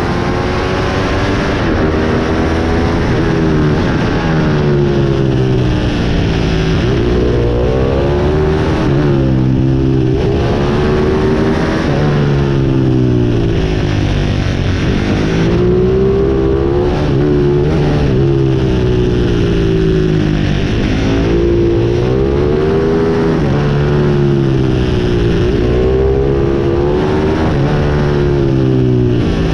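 Pit bike engine racing around a track, its pitch climbing as it revs up and falling off again every few seconds, over and over.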